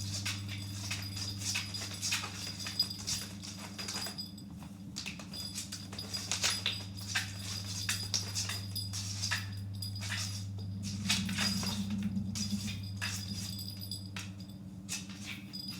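A cat's paws and claws scrabbling and clicking irregularly on a surface as it spins around, over a steady low hum.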